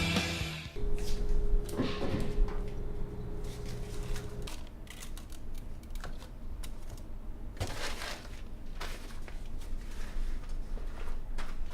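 Scattered small clicks and knocks, like objects being handled, with a steady hum from about a second in that stops abruptly a few seconds later.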